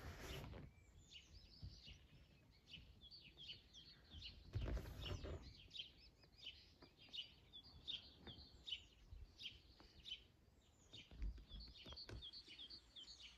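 Small birds chirping faintly in the background, many short repeated calls. A brief low rumble comes about five seconds in.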